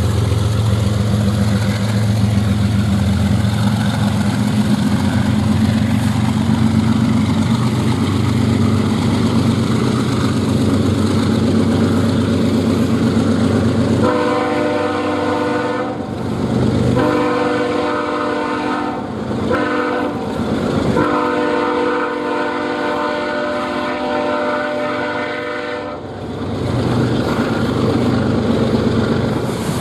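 Diesel locomotive engines rumbling as a freight train approaches, then its multi-chime air horn sounds four blasts (long, long, short, long), the standard grade-crossing signal. The engine and train noise carry on after the horn stops.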